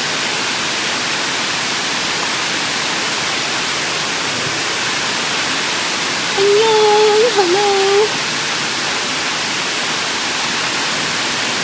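Steady, loud rushing of the Hongjecheon artificial waterfall pouring over its rock face into the stream.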